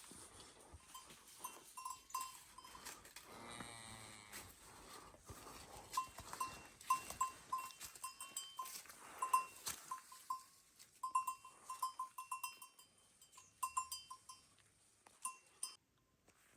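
A livestock bell clinking irregularly in short ringing strikes, as an animal wearing it moves, with a brief animal-like call about four seconds in. The sound cuts off abruptly near the end.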